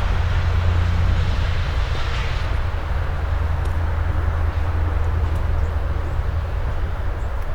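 A steady low engine rumble with a broad hiss over it, swelling about two seconds in and then easing off slightly. A few faint bird chirps sound high above it.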